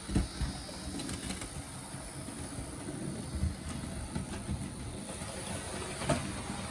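Märklin BR 03 model locomotive running on the track, its electric motor humming steadily with the wheels rumbling over the rails and a few sharp clicks along the way, as it pulls a couple of wagons. The loco is freshly oiled and lightly serviced.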